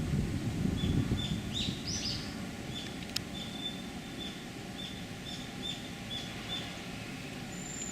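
A series of short, high-pitched calls of a common kingfisher, a few louder rising notes near the start and then thin pips about two a second. Under them is a low background rush that eases off.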